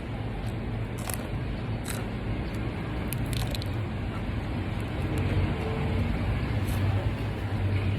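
Steady low hum of a car on the move, engine and road noise, with a few faint clicks.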